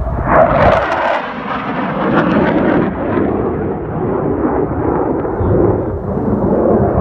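Jet plane passing low overhead: a loud roar that comes in suddenly, is sharpest in the first two seconds, then carries on as a steady rumble.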